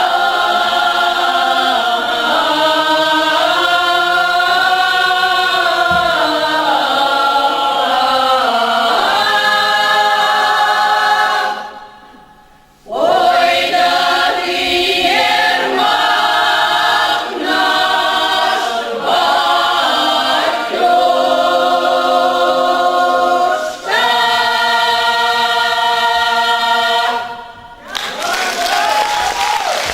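Folk song ensemble singing a Russian folk song a cappella in several-part harmony, with two brief pauses for breath. Near the end the singing stops and applause begins.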